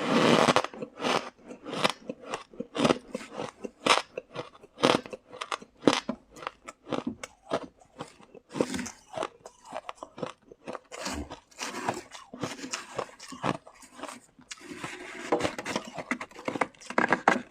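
Shaved ice (freezer frost) being bitten and chewed close to the microphone: squeaky, repeated crunches, about two a second, with a brief lull about 14 seconds in before a denser run of chewing.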